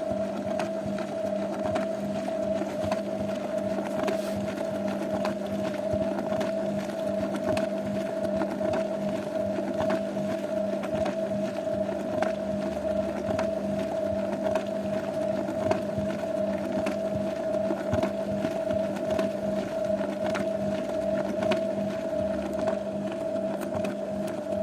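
Zanussi washing machine running, a steady motor hum with scattered light clicks and knocks.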